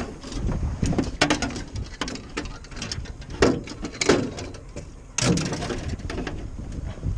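Irregular knocks, clicks and rustling of handling in a small fishing boat, with a low rumble underneath.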